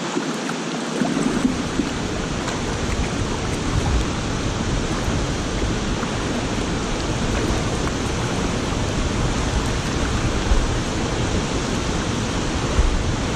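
Steady roar of a large waterfall close by, an even rush of falling water, with a deeper rumble joining about a second in.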